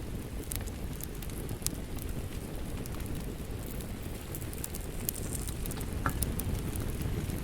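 Wood fire crackling, with scattered sharp pops over a steady low rumble, mixed with the patter of rain. A slightly louder pop comes near the end.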